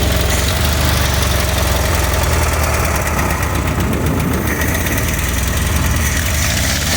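Vehicle engine running steadily at idle.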